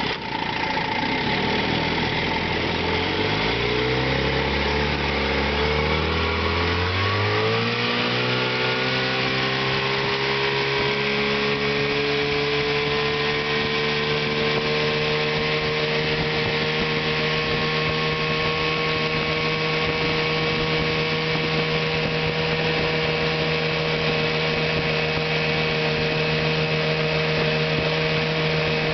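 1975 Chrysler 15 hp two-stroke outboard motor running. Its speed climbs over the first several seconds, then it holds a steady, even pace, running well after a fresh tune-up.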